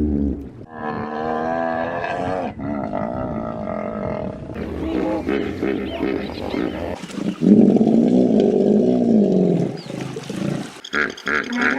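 A large wild animal giving a series of loud, drawn-out roaring calls that bend in pitch, the strongest one lasting about three seconds after the middle, followed near the end by a run of short quick calls.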